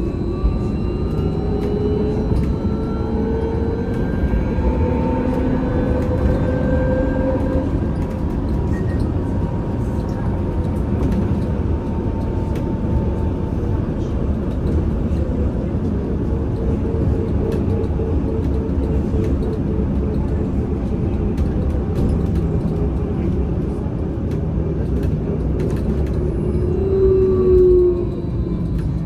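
Interior sound of a VMZ Avangard trolleybus under way: the electric traction drive's whine rises in pitch as it accelerates over the first several seconds, then steady running rumble and hum. Near the end a brief, louder whine.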